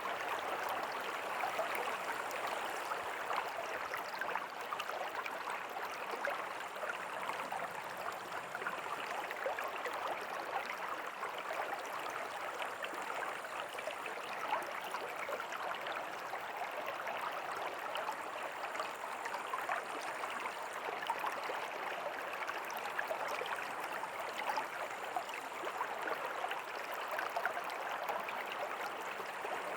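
River water flowing steadily over stones, a continuous babbling rush with fine crackle and no change in strength.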